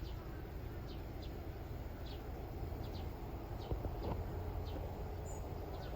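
Small bird chirping, short high falling notes repeated every second or so, over a steady low rumble, with a couple of soft knocks near the middle.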